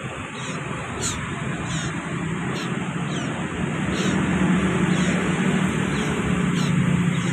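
Common iora giving a string of short, high, falling chirps, about one every 0.7 s. A low engine drone swells underneath from about four seconds in.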